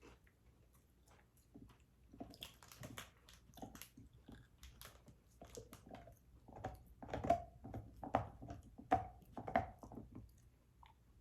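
A person chewing food close to the microphone, with irregular wet smacks and crunches that grow busier and louder in the second half.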